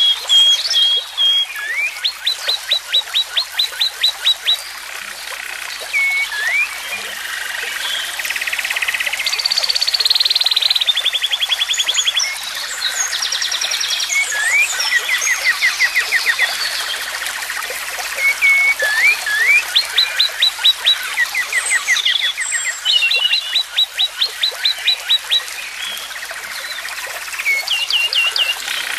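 Birds singing over one another: rapid trills of quickly repeated notes and short rising whistles, one trill after another.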